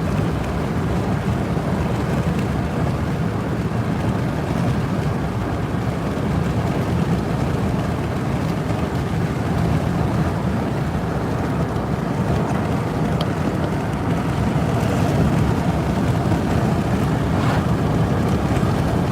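Steady road noise inside a moving truck's cabin: engine, tyres and wind, holding an even level.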